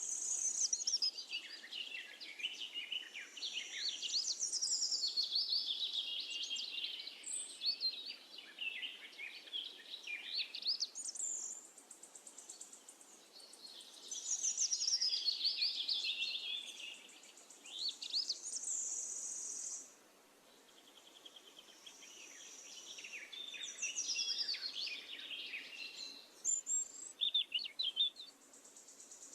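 Songbirds singing in several phrases of rapid chirps and warbling trills, with short pauses between them. A steady high insect-like buzz comes in between some of the phrases.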